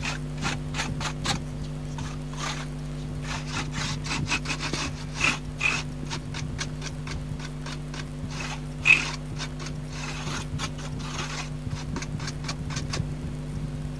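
Quick repeated scrubbing strokes as the dirty rubber key contact pads of a Roland EX-20 keyboard are cleaned, stopping about a second before the end, over a steady low hum.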